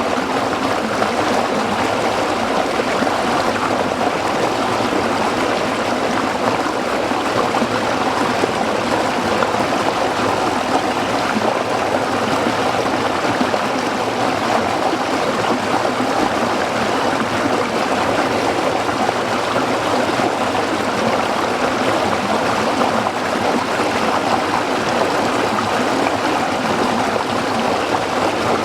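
Small stream running over rocks: a steady, even babble of water.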